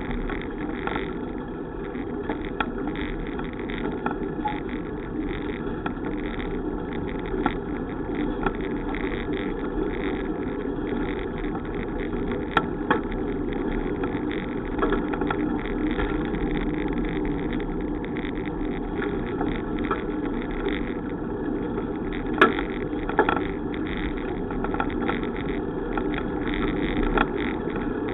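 Steady rumble and hiss of riding noise from a bicycle on the move, with a few sharp knocks, the loudest about 22 seconds in.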